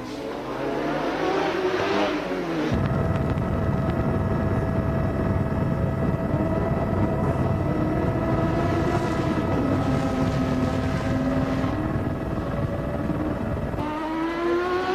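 A 1988 Formula One car's engine revs up through the gears. About three seconds in it gives way to a steady mechanical drone, with a constant whine over a wavering lower note, lasting about eleven seconds. Near the end a race car's engine revs up again.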